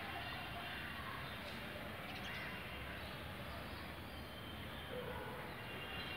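Steady background noise with a few faint, short bird calls.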